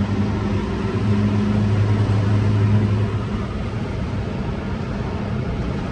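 Scania R620 truck's 16-litre V8 diesel engine running through a loud exhaust pipe: a steady low drone that drops a little in level about three seconds in.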